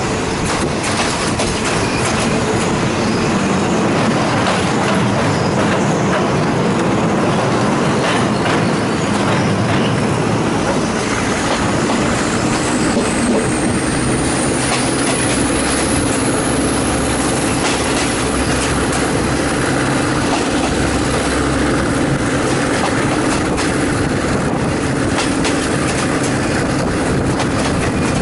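State Railway of Thailand passenger train running at speed, heard from an open carriage window: a steady rumble of wheels on rail with irregular clicks from the rail joints. A thin high squeal rises about a third of the way in and holds for several seconds before fading.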